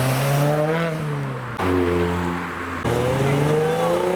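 Car engine accelerating hard, its pitch climbing, dropping at a gear change about one and a half seconds in, and climbing again after a second shift near three seconds in.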